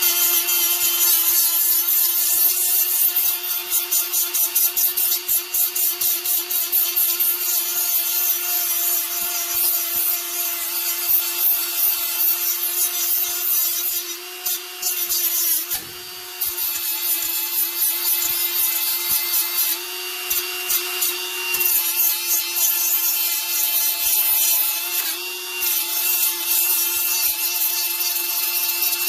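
Milwaukee M12 cordless die grinder running with an abrasive pad against a catalytic converter flange, scrubbing the gasket surface clean: a steady motor whine with a rasping scrub. It briefly drops off and slows about halfway through, then picks back up.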